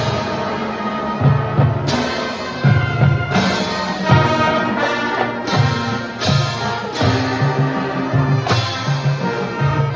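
High school marching band playing: sustained brass chords over low brass and drums, punctuated by loud full-band hits every second or two.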